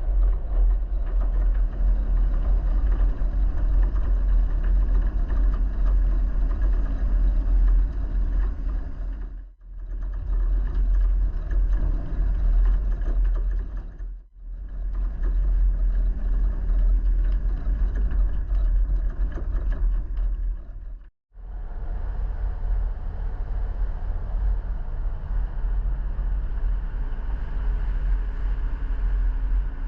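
A motor vehicle driving, with a steady low rumble of engine and road noise. It drops out briefly three times, at about 9 s, 14 s and 21 s.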